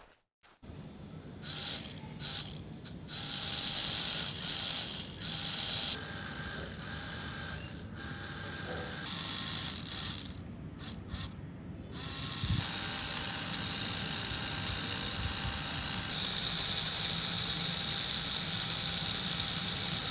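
Small electric motor of a home-made model tractor and chaff cutter whirring through its gears. It starts and stops several times, then runs steadily and a little louder for the last several seconds.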